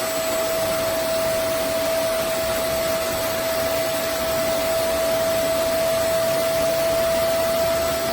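Vacmaster SCA0801 carpet and spot cleaner's suction motor running steadily, a constant whine over a rush of air, on a first dry vacuuming pass over a rug before washing it.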